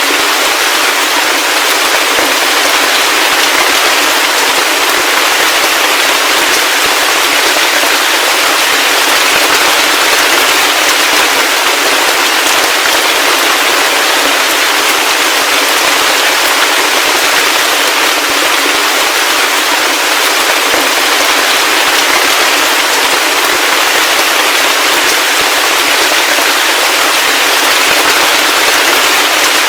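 Heavy rain falling steadily: a loud, unbroken hiss of countless drops with no deep rumble and no thunder.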